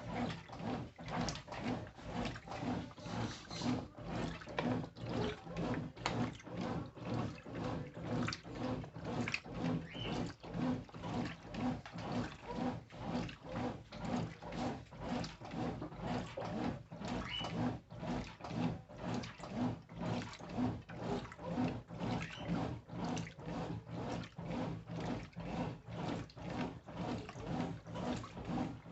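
Brastemp Intelligent washing machine agitating its load in water: rhythmic sloshing and churning about twice a second over a steady motor hum.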